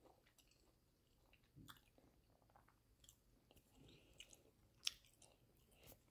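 Faint chewing and wet mouth clicks from a person eating, with scattered small smacks and one sharper click about five seconds in.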